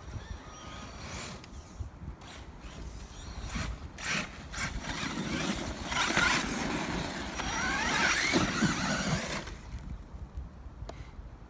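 Electric drivetrain of a 1/8-scale Losi LST XXL2-E monster truck on 6S whining as it is throttled up, its pitch rising and falling over about four seconds midway before it drops away.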